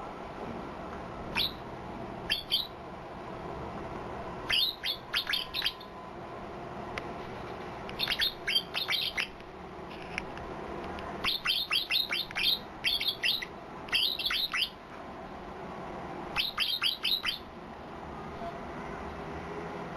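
White-eye (pleci) singing: runs of quick, high, downward-slurred chirps, from a single note up to about six or seven in a fast burst, coming every few seconds over a steady background hiss.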